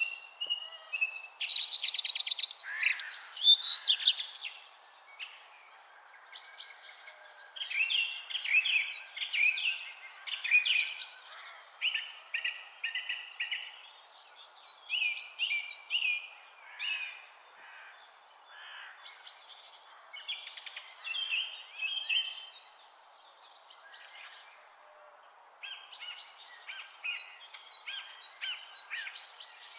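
Several songbirds singing, overlapping chirps and trills in short repeated phrases, loudest about two seconds in, over a faint steady background hiss.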